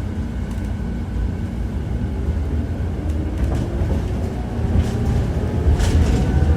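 Tram running, heard from inside the car: a steady rumble with the traction motor's whine rising in pitch as it picks up speed. Near the end the wheels clack sharply over rail joints.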